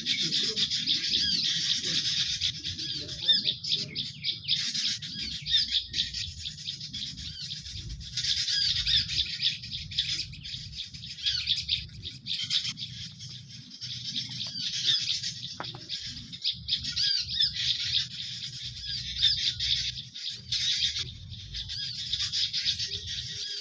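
Dense, continuous high-pitched chirping and twittering of small birds, the kind of call used as a lure to draw garden birds in for trapping. A low rumble runs underneath.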